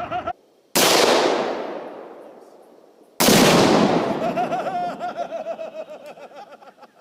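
Two loud, sudden blasts a little over two seconds apart, each dying away over a couple of seconds: Tannerite exploding targets detonating when hit by rifle fire.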